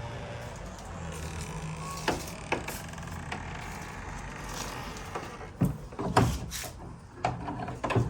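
Scattered knocks and thumps on wood over a steady low hum, a few early on and a louder cluster in the last few seconds.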